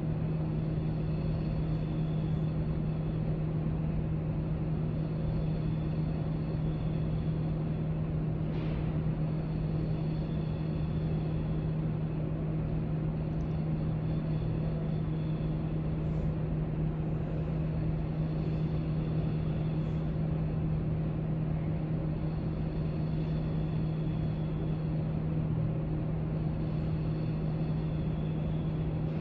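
Steady low hum and hiss of library background noise, with a few faint clicks and taps scattered through it.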